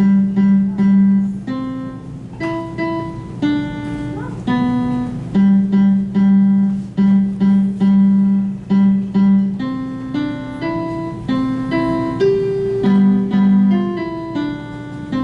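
A solo instrumental melody played one note at a time, with a low note repeated again and again between short runs of higher notes.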